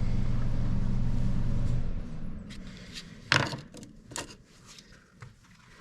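A steady low machine hum that stops about two seconds in, followed by a few sharp knocks and clicks, the loudest about a second later.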